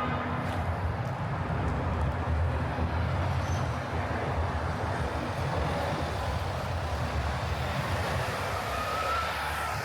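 A steady low rumble of a passing train over an urban background hum.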